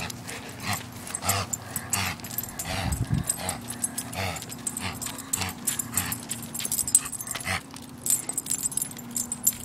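A dog's sounds among many short, irregular clicks and rustles, over a steady low hum.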